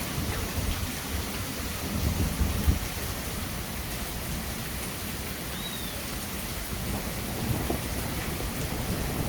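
Steady heavy rain with low rolling thunder underneath, the rumble swelling about two to three seconds in and building again near the end.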